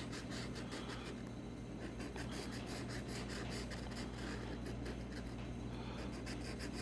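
Scratching the coating off a scratch-off lottery ticket: quick, evenly repeated scraping strokes over a low steady hum.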